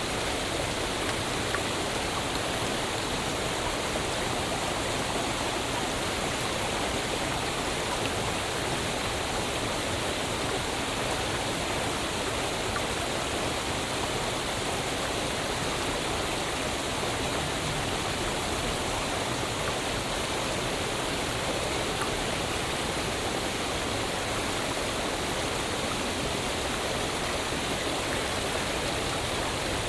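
Waterfall: a steady, even rush of falling water that holds at one level throughout.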